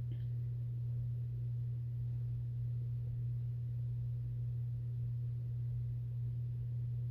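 A steady low-pitched hum that holds one unchanging tone.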